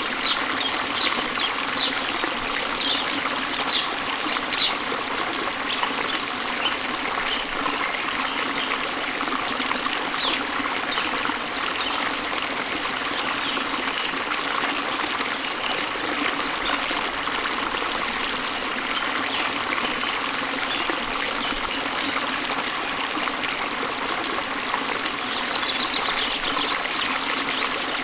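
Waterfall water running in a steady rush. Small birds chirp over it in quick short notes during the first few seconds, more faintly in the middle and again near the end.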